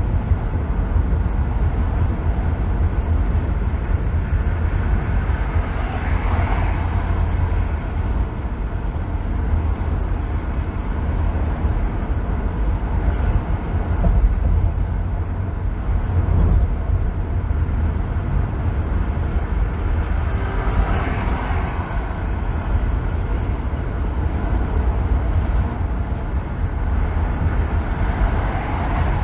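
Steady road noise of a car driving on a freeway: a constant deep rumble with a hiss of tyre and wind noise over it. Brief swells of higher noise come about 6 s in, around 21 s and again near the end.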